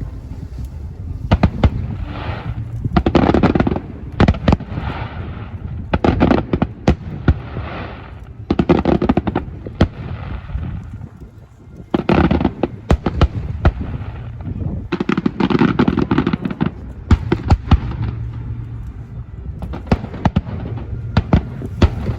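Fireworks going off continuously: a steady run of sharp bangs and deep booms, with crackling shells fizzing and sparkling after the bursts.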